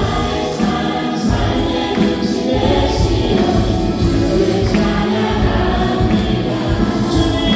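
Live worship music: a praise band with keyboards, bass guitar and drums playing under voices singing together.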